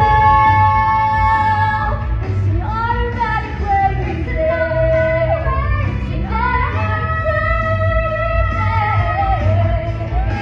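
Female voices singing a song over instrumental accompaniment in a large hall. A long held note opens it, followed by shorter rising and falling phrases.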